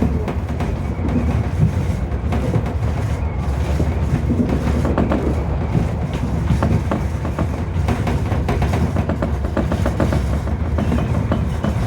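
Tobu 30000 series electric train running, heard from inside the leading car: a steady rumble of wheels and running gear with frequent clacks over rail joints.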